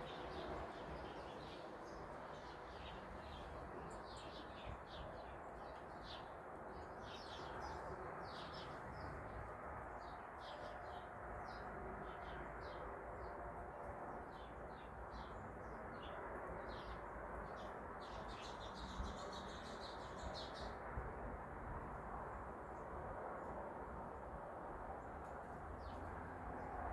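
Small birds chirping in a long series of short, high call notes, busiest near the two-thirds mark and then stopping, over a steady low background rumble.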